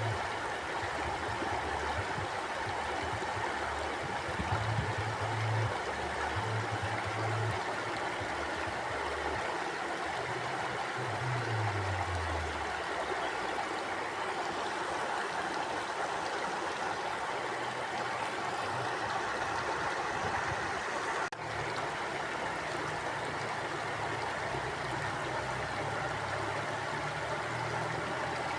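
A river flowing in a steady rush, with low rumbles coming and going underneath.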